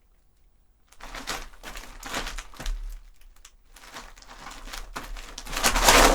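Gravel crunching and scraping in a foley box of gravel. A run of crunches starts about a second in, then a second, louder crunching scrape builds to its loudest near the end.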